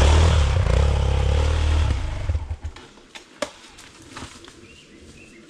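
Dirt bike engine running hard under throttle on a failed attempt at a steep hill climb, then cutting out about two and a half seconds in, followed by a few sharp knocks and clatter.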